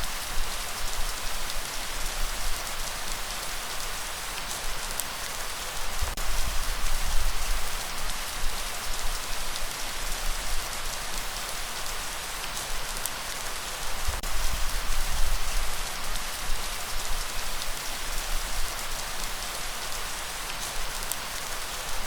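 Steady light rain falling as an even, dense hiss, with a low rumble of breeze swelling and fading every few seconds.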